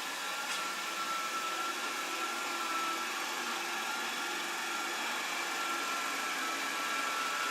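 Proscenic 820S robot vacuum cleaner running: a steady suction-fan and motor hum with a high whine over it.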